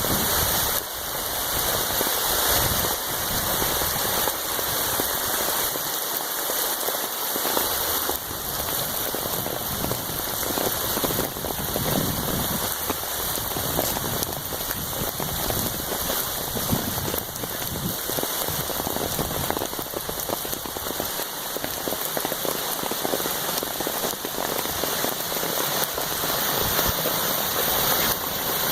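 Steady rain falling on a lakeshore.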